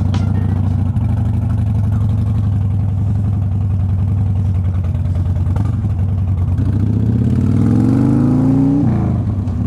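Motorcycle engine running steadily, then accelerating with a rising pitch for about two seconds near the end before dropping sharply, as at a gear change.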